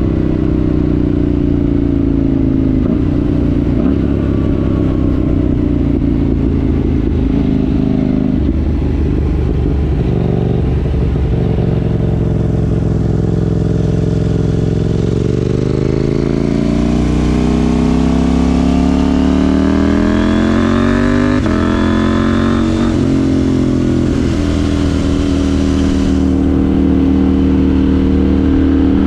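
KTM 790 Duke's parallel-twin engine breathing through a Remus rear silencer with the catalytic converter removed, under way on a ride. The revs climb steadily a little past halfway, fall back briefly, then hold steady to the end.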